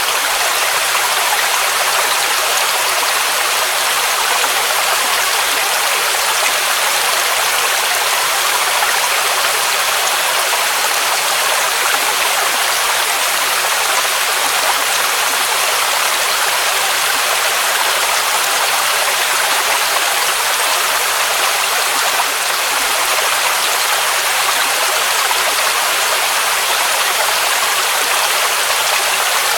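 Waterfall rushing steadily: an unbroken hiss of falling water, mostly high with little deep rumble.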